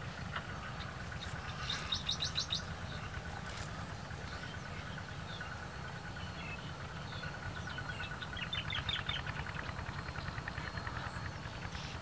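Wild birds chirping, with two quick trilled runs of high notes about two seconds in and again about nine seconds in, over a steady low rumble.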